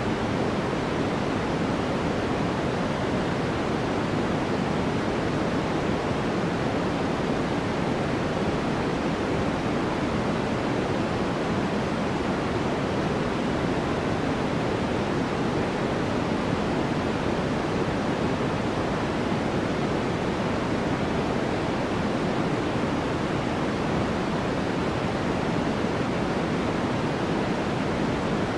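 Steady, unchanging white noise: an even hiss, fuller in the low and middle range than at the top, with no other sound.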